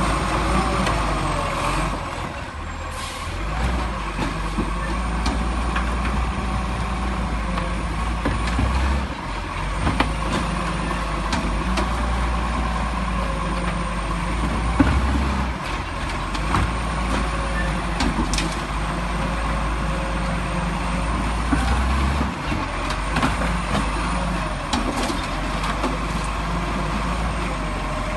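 Garbage truck engine running steadily, with an occasional hiss of air and a few sharp knocks.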